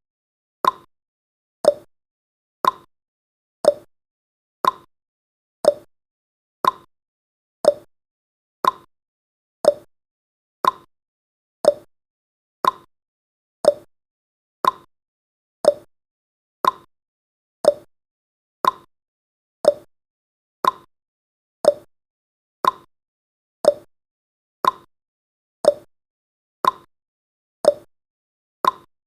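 Clock tick-tock sound effect, one sharp tick a second, alternating between a higher and a lower tick.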